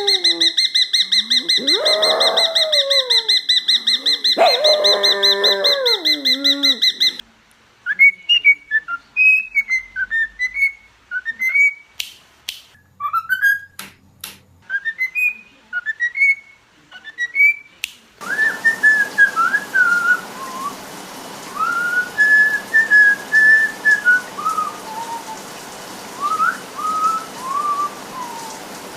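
Pet birds whistling: runs of short, gliding whistled notes, some strung into melodic phrases, with a few sharp clicks. The first several seconds hold a loud steady buzzing trill over lower gliding calls, which stops abruptly.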